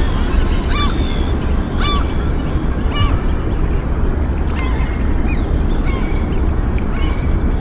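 A bird calling in short, repeated pitched notes, about one a second, over a steady low rumble.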